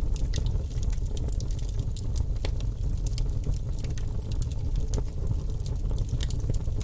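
Fireplace fire crackling, with many small irregular pops over a steady low rumble of the flames.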